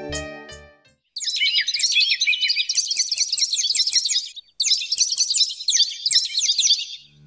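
Small birds twittering: a dense run of rapid, high chirps, breaking off briefly about four and a half seconds in and then going on.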